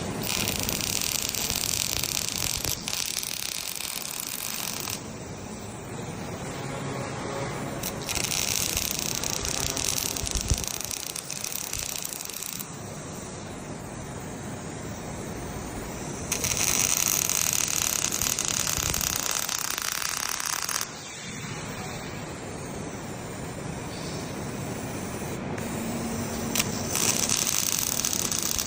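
Robotic arc welding: a steady hissing, crackling arc in sections that switch abruptly every few seconds between louder, brighter stretches and quieter ones.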